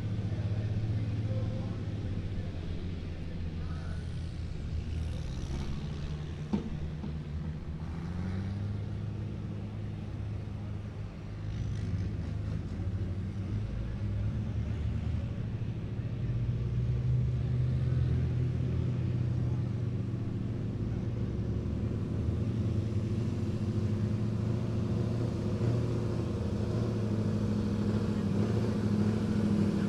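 Truck engine running steadily, its pitch stepping up and down a little as it revs, with a rise in level about a third of the way in.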